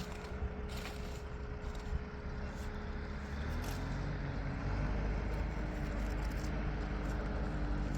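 Tractor engine running steadily, then revving up about three and a half seconds in and holding at a higher, louder pitch, with a few light clanks.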